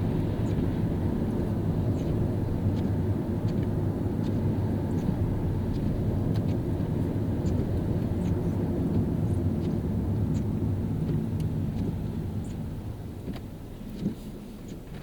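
Car driving on a wet road: a steady low rumble of engine and tyre noise, with faint scattered ticks. It grows quieter after about eleven seconds as the car slows, and a single short thump comes near the end.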